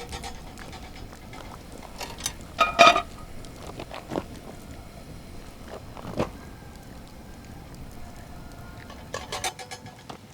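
Scattered knocks and clicks of gear being handled, with one louder clank about three seconds in that rings briefly like metal, and a quick cluster of clicks near the end.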